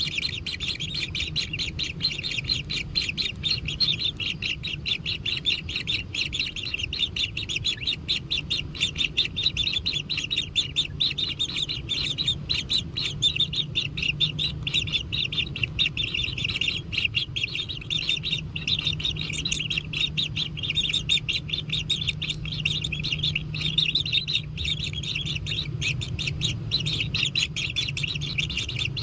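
Kingfisher chicks in the nest calling without a break, a fast buzzy chatter of begging calls, with a low steady hum underneath.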